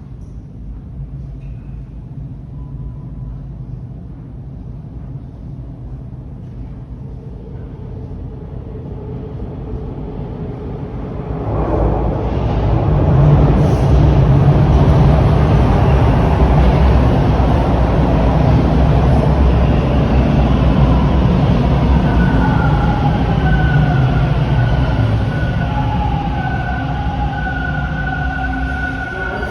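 TTC Bombardier T1 subway train coming into the station: a low rumble builds, turns suddenly loud about eleven seconds in, then the wheels rumble and rattle while high whining tones fall in pitch as the train slows.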